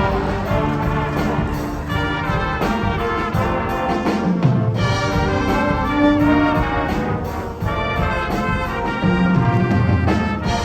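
Wind ensemble playing, brass leading with sustained chords; the low brass slides down in pitch about four seconds in and again near the end.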